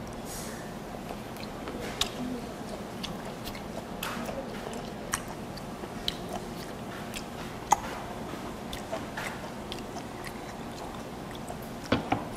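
Close-miked mouth chewing raw striped pufferfish sashimi, with soft wet clicks and smacks scattered throughout. Near the end there are a couple of sharper knocks as a glass soju bottle is picked up.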